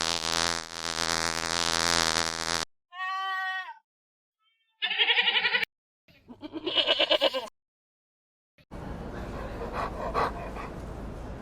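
A run of separate animal calls, one after another with abrupt cuts and short silences between them: a long wavering bleat, then shorter quavering bleats. From a little before the end, a noisier, breathy sound takes over.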